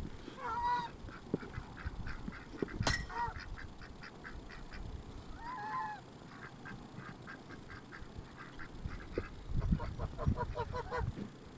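Domestic geese honking and Cayuga ducks quacking in a rapid, steady run of short calls, with a couple of longer honks. There is a sharp click about three seconds in and a few low thumps near the end.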